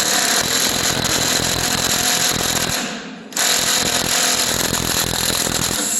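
Impact wrench hammering at a rusted carriage-bolt nut in the truck bed, in two long runs with a short break about three seconds in. The bolt has still not come loose.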